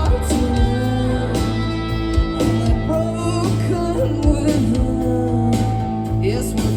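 Live rock band playing a song: drums, bass and electric guitars, with a voice singing over them.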